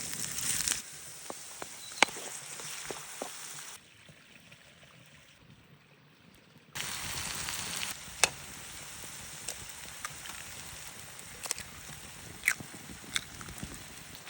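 Menemen sizzling as it fries in a pan: a steady high hiss with scattered sharp crackles and clicks. It drops much quieter for about three seconds partway through, then the sizzling returns.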